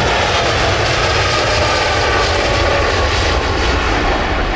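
Loud, steady jet-engine noise from a Boeing 787 airliner close by, a dense rumble with a faint whine above it.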